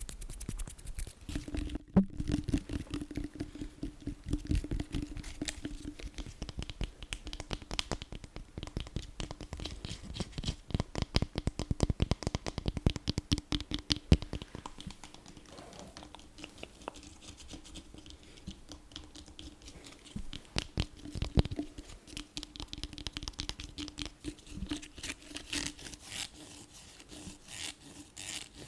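Rapid ASMR tapping and scratching on objects close to the microphone, many quick taps a second mixed with scratching, over a faint steady hum.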